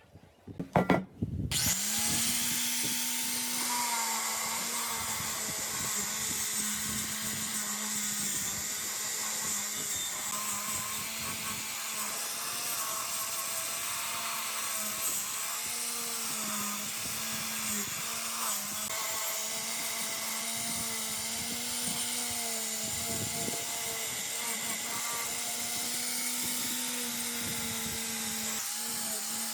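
An electric power tool is switched on after a couple of clicks about a second in, then runs steadily with a strong hiss. Its hum wavers slightly in pitch as it works.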